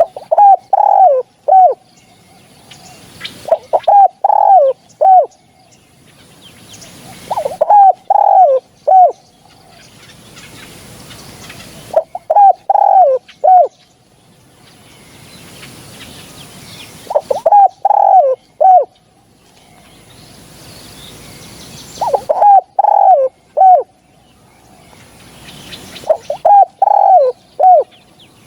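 Spotted dove cooing: a loud phrase of about four short notes, repeated seven times roughly every four to five seconds.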